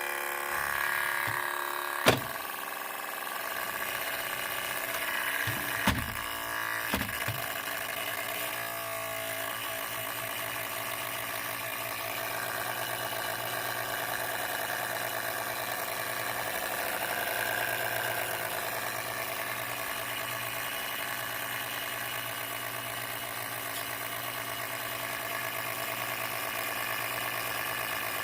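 MSI PE60 6QE gaming laptop's cooling fan running steadily with an annoyingly loud, many-toned whir, a fault its owner wants repaired. A few sharp knocks come about two seconds in and again around six to seven seconds in.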